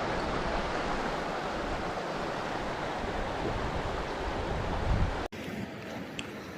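Steady rush of a swollen, fast-flowing river. It drops to a quieter water sound after an abrupt cut about five seconds in.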